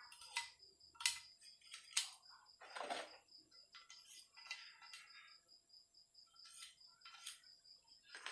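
Scattered light clicks, taps and short scrapes of small metal engine parts being handled and cleaned by hand, with one longer scrape about three seconds in.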